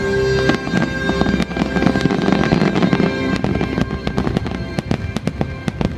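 Fireworks bursting and crackling, many sharp pops in quick succession, over the show's music with long held notes.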